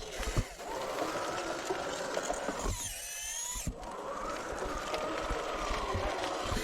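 Small electric drive motors and plastic gearboxes of a 3D-printed RC skid steer loader whining, the pitch rising and falling as the machine speeds up and slows, with scattered plastic clicks and knocks. From about a third of the way in, for a second, a higher, thinner whine rises in pitch in place of the drive sound.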